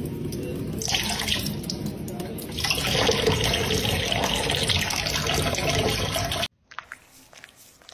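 Water running from a tap, a steady rushing that grows louder about two and a half seconds in and cuts off suddenly near the end.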